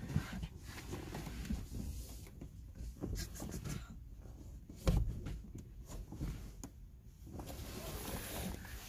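Handling noises inside a small car's cabin as fabric window curtains are fitted: scattered knocks and clicks with one loud thump about five seconds in, and rustling near the end.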